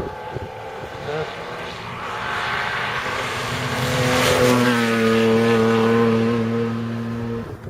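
Historic rally car engine at high revs as the car approaches and passes: the sound builds to its loudest about four seconds in, holds a steady pitch, then cuts off suddenly near the end.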